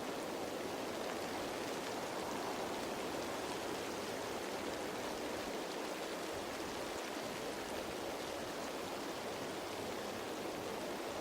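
Steady rain falling on leaves: an even, dense patter with no breaks or changes.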